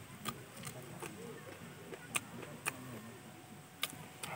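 Close-up eating sounds of a person chewing fried chicken: a series of sharp, wet mouth clicks and lip smacks, several of them standing out over the chewing.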